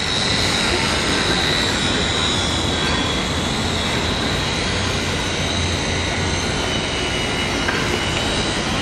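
Train running on rails with a steady high-pitched wheel squeal over a continuous rumble, starting abruptly.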